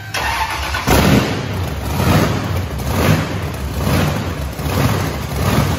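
High-powered race car engine running and being revved, swelling in a throttle blip about once a second after it cuts in sharply about a second in.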